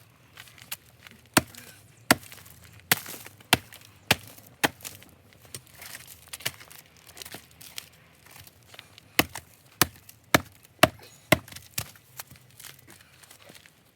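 Hatchet chopping and splitting fatwood: irregular sharp wooden knocks, about one or two a second, with brief scraping between strikes.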